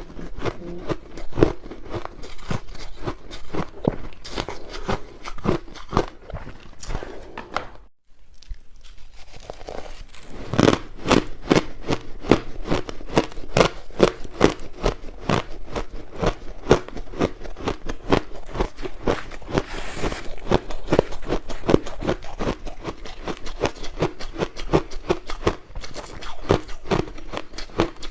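Crushed ice being bitten and chewed close to the microphone: dense, rapid crunching that breaks off briefly about eight seconds in, then carries on.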